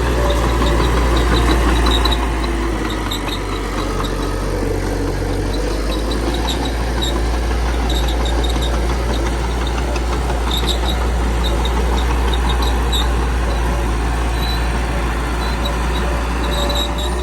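Small crawler bulldozer's diesel engine running steadily as it works, with short high squeaks now and then from the tracks.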